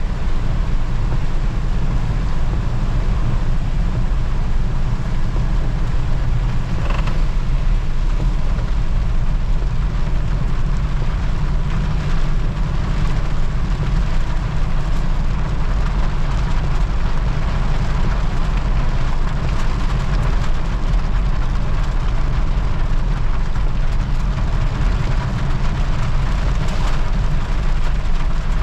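Steady engine and road rumble of a moving motor vehicle, with occasional creaks and rattles.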